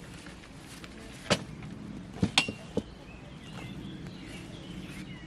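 A few sharp clicks or knocks over a steady low hum: one a little over a second in, then three close together around the middle.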